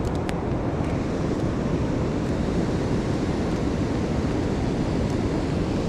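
Steady rush of water from a river spillway mixed with heavy rain, with a few faint ticks.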